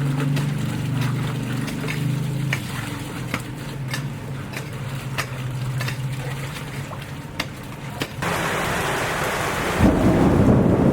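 Rain setting in: scattered sharp drops tick throughout, over a steady low hum that fades after about seven seconds. About eight seconds in, a dense downpour hiss takes over, and near the end a loud low rumble joins it.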